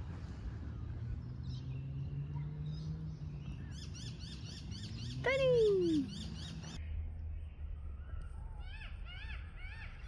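Birds chirping in quick, repeated high notes, with one loud falling whistle about five seconds in. A steady low rumble runs underneath.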